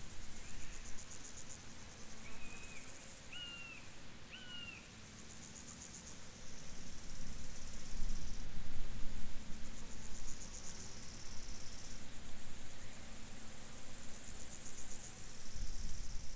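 Crickets chirping in repeated high, pulsing trills, each about a second long. A bird gives a few short whistled notes in the first few seconds, over a low background rumble that grows louder about halfway through.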